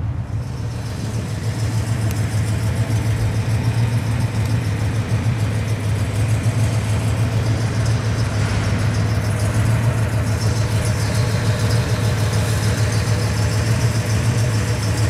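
1967 Cadillac Eldorado's 429 V8 idling steadily through its true dual exhaust.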